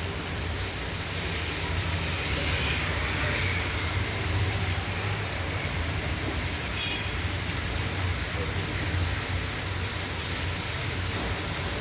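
Heavy downpour: a steady hiss of rain with a continuous low rumble underneath.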